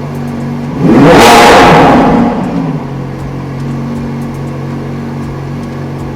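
Lamborghini Aventador Ultimae's naturally aspirated V12 idling, blipped once about a second in: it revs up sharply, holds briefly, and falls back to a steady idle by about three seconds in.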